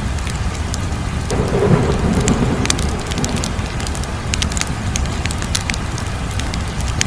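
Wood fire crackling, with frequent sharp pops and snaps over a steady low rumble. A fuller low swell of flame noise rises about a second in and fades over the next two seconds.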